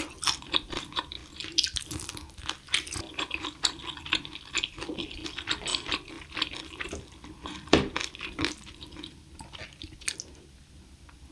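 Close-miked chewing of crispy spicy-glazed fried chicken (Kyochon Red Combo): a dense run of wet crackles and crunches, with one louder knock about eight seconds in. The chewing dies away in the last second.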